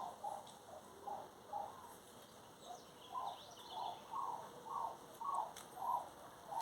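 A bird calling: a run of short, repeated low notes, about two a second, louder in the second half, with faint higher chirps in the middle.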